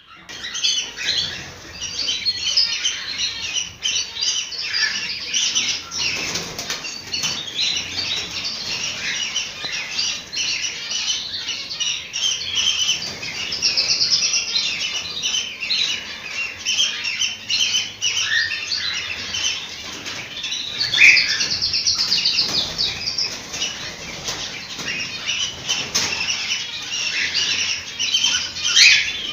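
A flock of cockatiels chirping and whistling continuously, many calls overlapping, with a few rapid trilled runs.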